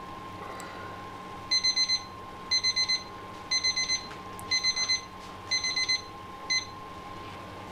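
Electronic timer beeping in groups of four quick high beeps, about one group a second, six times, with the last group cut short. The timer marks the end of the 45-minute simmer. A steady hum runs underneath.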